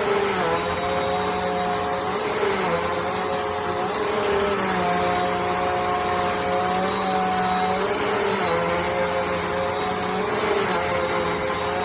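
Bissell CleanView Compact upright vacuum running with a steady hum and rush of air, its motor pitch dipping slightly and recovering every couple of seconds.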